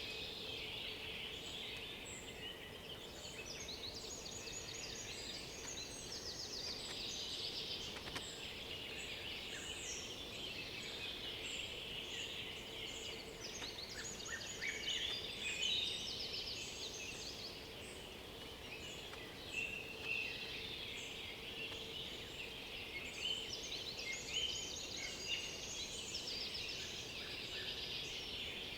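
Several songbirds singing at once in a steady chorus, overlapping rapid trills and short whistled phrases, with a faint steady hum underneath.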